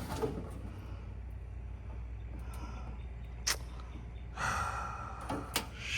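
A breathy sigh a little past halfway, and two sharp knocks from items being moved while rummaging for a tool, over a steady low hum.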